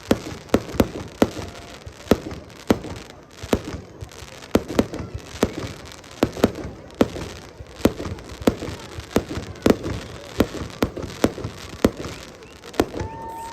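Fireworks going off in a rapid, irregular string of sharp bangs and pops, with crackling between them.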